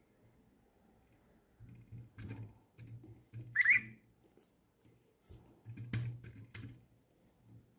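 DigiBirds lovebird toy giving a short rising electronic chirp about three and a half seconds in, amid scattered clicks and knocks from the toy being handled or tapped.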